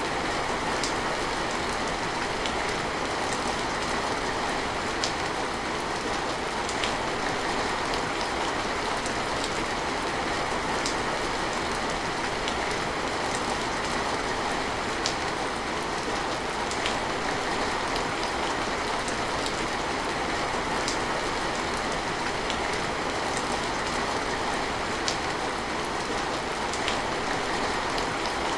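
Steady rain falling, with a constant hiss and scattered single drops ticking out now and then.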